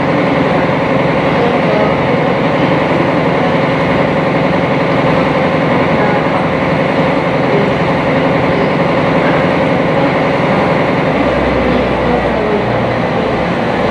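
Sightseeing boat's engine running steadily underway, heard on board as a loud, even drone with a steady hum. A deeper rumble joins in briefly near the end.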